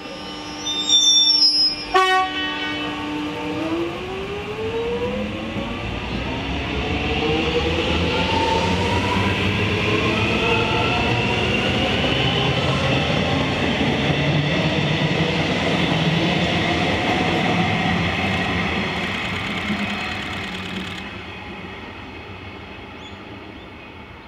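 Alstom X'Trapolis 100 electric train sounds its horn near the start, then pulls away. The whine of its traction motors rises steadily in pitch as it gathers speed, over the sound of its wheels on the rails, and the train fades into the distance near the end.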